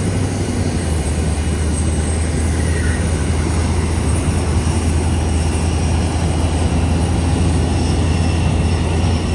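Jet aircraft engines running at high power, a loud, steady rumble with a deep low end and a rushing noise spread across the higher frequencies.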